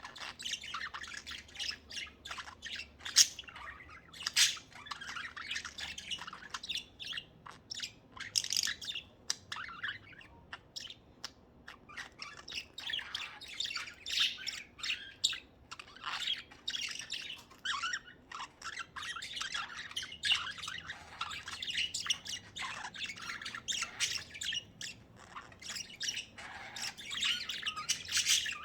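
Budgerigars chattering and warbling, a steady stream of chirps, squawks and sharp calls.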